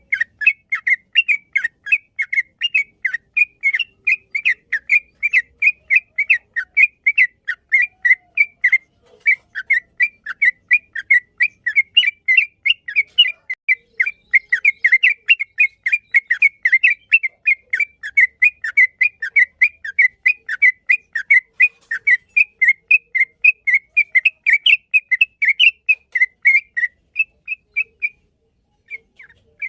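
Yellow-vented bulbul singing: a long unbroken run of quick whistled notes, about three or four a second, with a short pause near the end.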